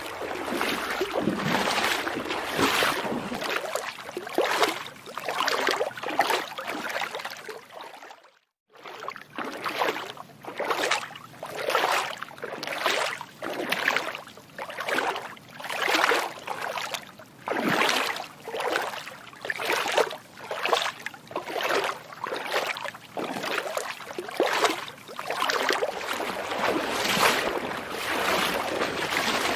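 Footsteps wading through water, each step a splash, about one a second, with a brief break about eight seconds in.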